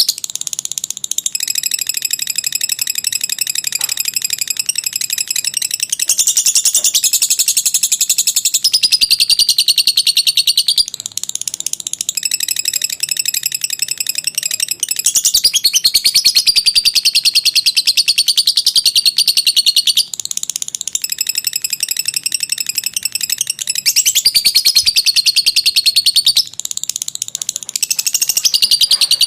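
Lovebird singing a long, unbroken 'ngekek' chatter: a rapid, high-pitched trill of many notes a second that changes its pattern every few seconds.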